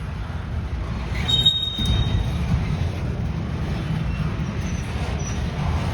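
Train rolling past, a steady low rumble of wheels on rail, with a brief high wheel squeal about a second in.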